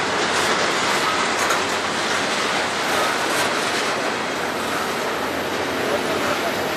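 Intermodal freight train's double-stack well cars rolling past at close range: a steady, loud noise of steel wheels running on the rails.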